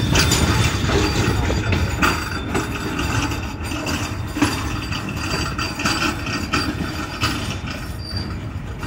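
Passenger train rolling slowly along a station platform, heard from an open carriage doorway: the wheels run over the rails with a steady rumble and a few sharp clanks and knocks. The sound gets a little quieter toward the end.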